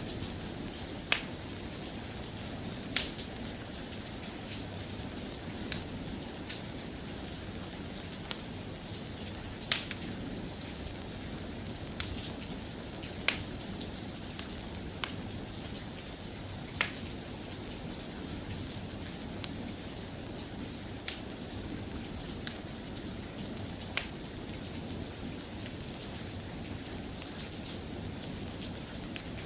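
Soft, steady rain, with sharp clicks at irregular intervals every second or two.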